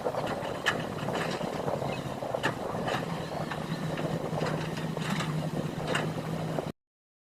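An engine running steadily under outdoor noise, with a few short knocks. The sound cuts off abruptly to silence near the end.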